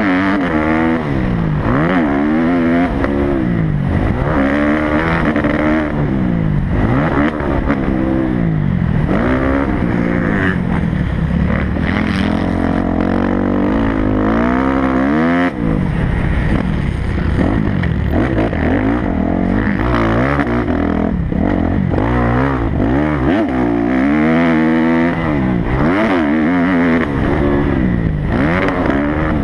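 Kawasaki motocross bike's engine revving hard and falling back again and again as the rider works the throttle and gears around the track, recorded close on the bike. The throttle is chopped briefly about halfway through.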